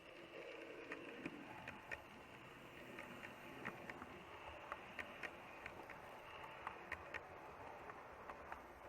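Hattons 00 gauge P class 0-6-0 model locomotives running round a layout: a faint motor hum, with irregular light clicks of wheels going over rail joints about once or twice a second.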